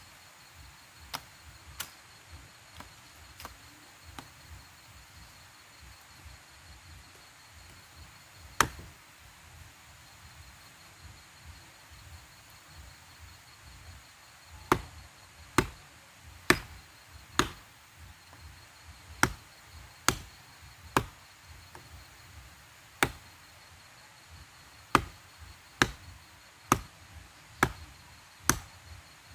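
Wood being chopped with a blade, sharp single strokes. A few scattered strokes come early, then from about halfway in a steady run of about one stroke a second.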